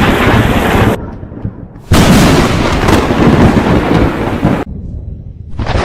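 Loud thunder crashing and rumbling from close lightning strikes, in two long stretches that each stop suddenly, with quieter rumbling between them.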